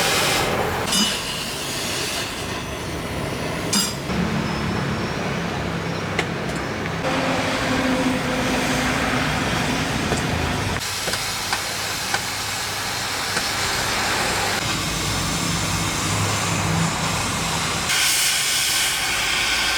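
Heavy machinery running with a steady hiss, broken by a few sharp metal knocks and clinks.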